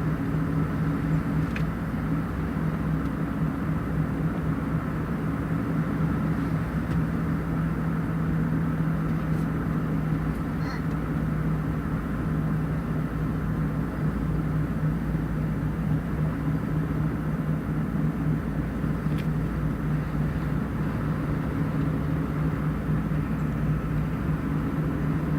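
A vehicle driving at a steady speed: even engine hum and road rumble with no change in speed.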